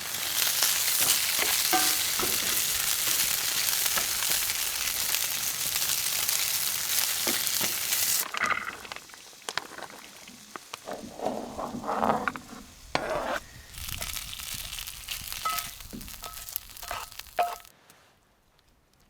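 Chicken pieces sizzling in hot oil in a pan. The sizzle is loud for about eight seconds, then drops suddenly to a quieter sizzle broken by clicks and scrapes. It fades out near the end.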